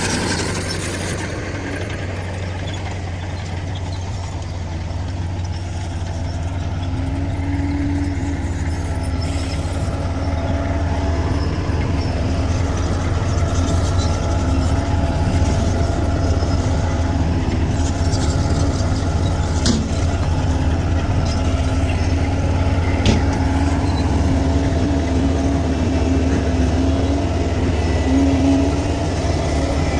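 Bulldozer's diesel engine running steadily at work, with a couple of brief knocks about two-thirds of the way through.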